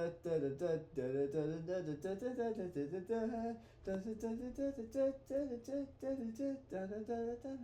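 A man humming a wordless tune in short, quick syllables, about four or five a second.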